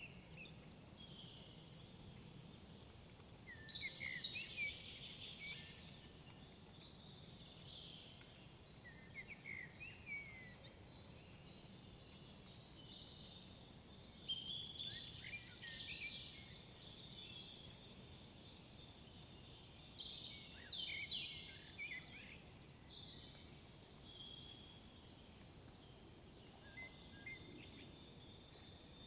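Forest songbirds singing. One bird repeats a short, high, trilled phrase about every six to seven seconds, with other chirps and calls between, over a faint low background rumble.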